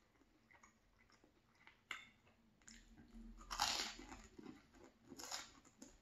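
Close-up chewing and crunching of buttered toast with strawberry jam: faint small mouth clicks at first, then two louder crunchy mouth noises about three and a half and five seconds in.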